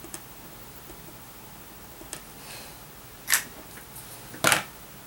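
Handling of paper pieces and craft tools on a table: a few faint ticks, then two sharp clicks about three and four and a half seconds in.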